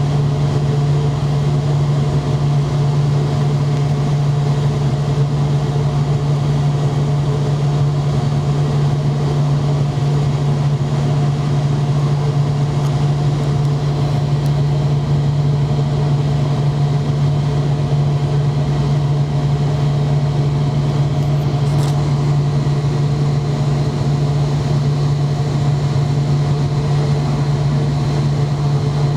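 Steady, unchanging hum of an McDonnell Douglas MD-90 airliner on the ground, heard from inside the cabin: a strong low drone with a few steady higher tones over it. A faint brief tick about 22 seconds in.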